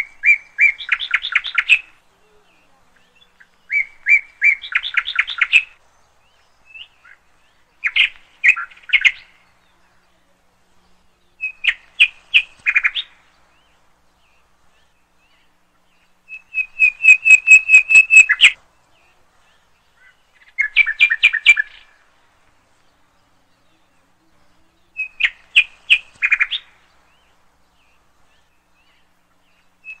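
A songbird singing: short phrases of rapid chirps and trills, seven of them a few seconds apart, with pauses between.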